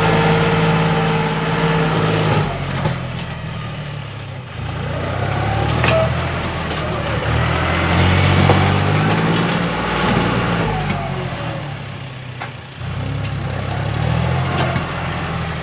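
John Deere tractor engine running and working, its pitch and loudness rising and falling several times as the load changes.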